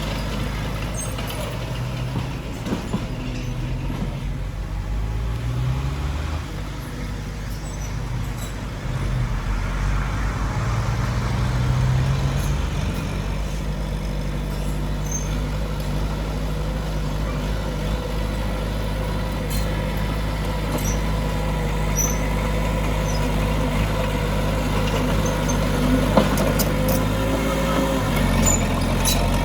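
Heavy diesel engine of earthmoving machinery running, its pitch rising and falling several times in the first half as it works, then steadier, with a few light clicks toward the end.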